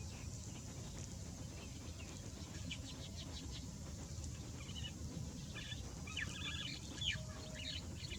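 Small birds chirping in quick, short calls, starting about two and a half seconds in and growing busier toward the end, over a steady low rumble.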